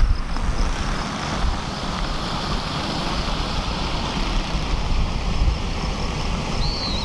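Suzuki DRZ400's single-cylinder engine running while the bike is ridden, under a steady rumble of wind on the microphone.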